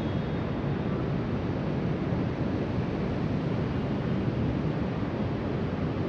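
Ocean surf breaking along the shore with wind rushing across the microphone: a steady, low, unbroken rushing noise.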